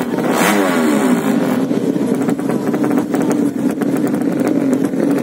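Racing underbone motorcycle engines. The pitch falls away over about the first second, then an engine keeps running at a steady note.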